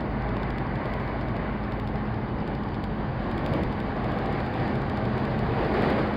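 Electric commuter train running at speed, heard from inside the car: a steady rumble of wheels on rail with a low, even hum underneath.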